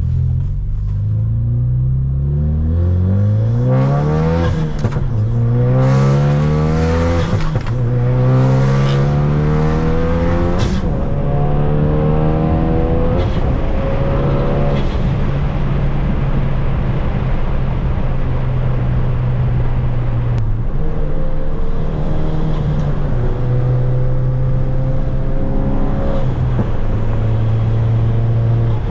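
Ford Focus RS's 2.3-litre turbocharged four-cylinder engine pulling hard through several gears, its pitch climbing and dropping at each upshift. It then settles into a steadier run at lighter throttle.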